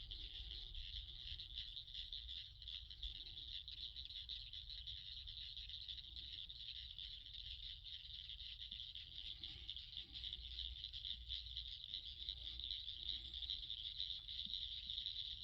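Steady, dense, high-pitched night chorus of many calling animals, a continuous shrill trilling that never breaks, with fainter lower calls now and then and a low rumble underneath.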